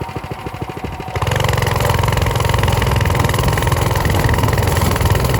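Motorcycle engine chugging in even low pulses, then about a second in getting suddenly much louder and steadier under a dense rush of wind noise as the bike picks up speed.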